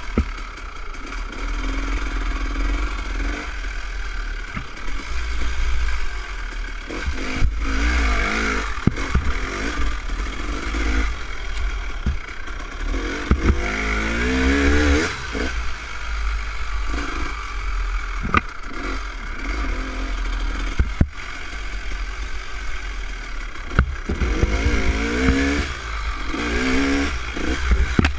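Dirt bike engine revving up and down as it rides a motocross trail, with a few sharp knocks from the bike over the ground.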